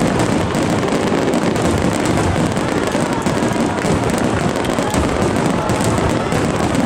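Fireworks display: a dense, unbroken run of crackling and popping bangs, with no pauses.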